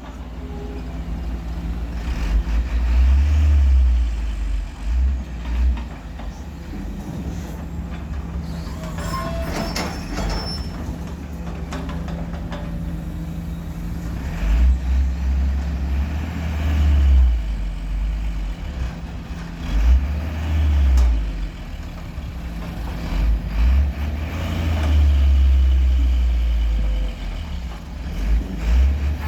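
Truck engine running on the road under a heavy low rumble that swells and fades every few seconds.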